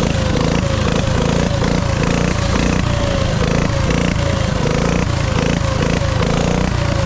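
Dirt bike engine running steadily under a haze of noise, with a short falling whine that repeats about twice a second.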